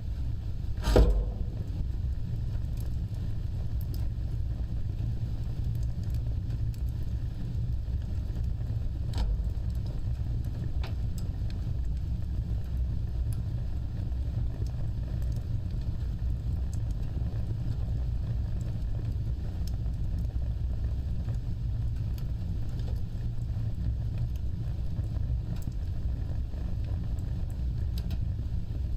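Fireplace fire burning with a steady low rumble of flames. One loud sharp crack comes about a second in, and a few fainter pops and ticks are scattered after it.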